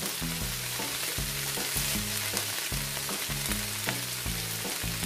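Green beans and minced pork sizzling in a wok, a steady hiss, with soft background music underneath.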